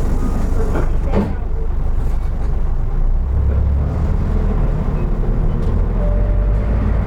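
Interior running sound of a 2003 Isuzu Erga Mio (KK-LR233J1) city bus: the engine's low drone, which grows stronger about three seconds in as the bus pulls harder. There is a brief sharp sound about a second in.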